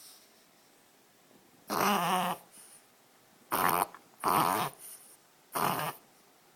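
Yorkshire terrier reverse sneezing: four loud, rough inhalations through the nose, each about half a second long, unevenly spaced.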